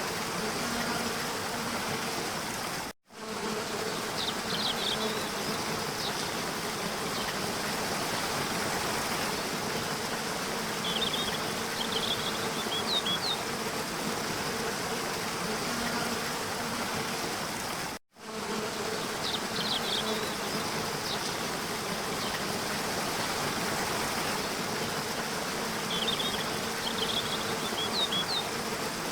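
Waterfall rushing steadily, with brief high bird chirps in small clusters about four times. The sound drops out for an instant twice.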